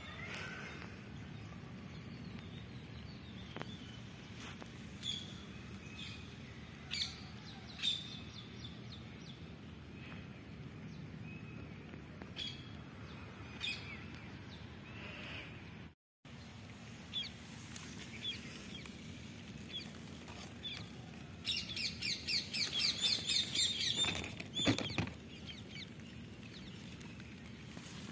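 Birds chirping, scattered short high calls over faint steady background noise, with a fast run of repeated chirps for a few seconds near the end; the sound drops out briefly about halfway through.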